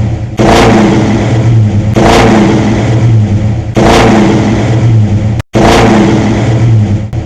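A car engine revving hard, the same short rev repeated four times in a row, each about a second and a half long and cut off abruptly before the next.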